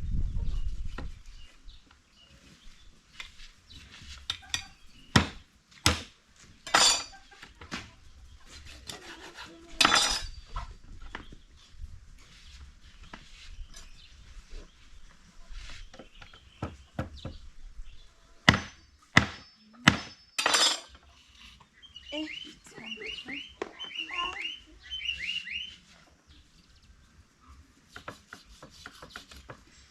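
Metal pots and dishes knocked and clinked together in a series of sharp clanks, some ringing briefly. About two-thirds of the way in, a bird calls in a quick run of falling chirps.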